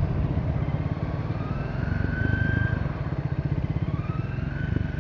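Triumph Speed 400's single-cylinder engine running on the move, with a siren-like whine that rises in pitch twice above the engine note under engine braking.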